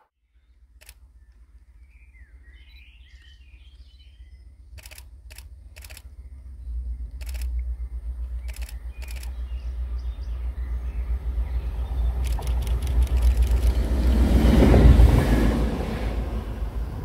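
A train approaching along the line and passing close by, its noise building steadily to a peak near the end, with a few sharp clicks along the way. Low wind rumble on the microphone throughout, and birds chirp briefly a couple of seconds in.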